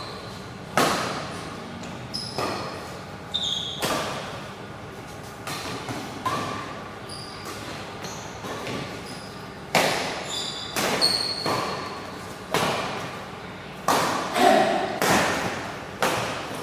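Badminton rally: rackets striking the shuttlecock again and again, roughly every one to two seconds, each hit echoing in a sports hall. Brief high squeaks of shoes on the court floor come between the hits.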